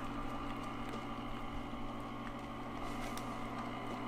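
Chocolate fondue fountain's motor running with a steady hum, with a few faint ticks.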